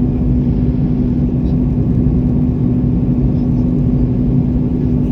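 Airliner engines droning steadily, heard inside the passenger cabin during the climb after takeoff: a constant low hum over a broad rumble.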